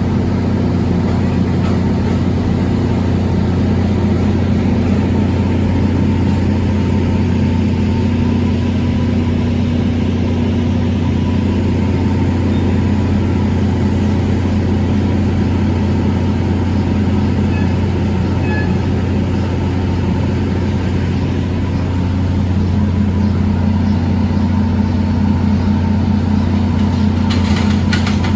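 Steady low mechanical drone of a standing train, its hum unchanging. Near the end clicks start as train wheels begin to run over rail joints.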